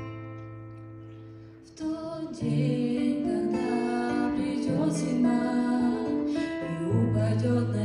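Acoustic guitar playing an instrumental introduction. A chord rings and slowly fades, then about two seconds in a fuller, louder passage of picked notes begins.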